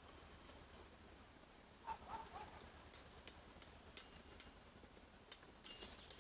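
Near silence with a few faint short animal-like calls about two seconds in and scattered light ticks.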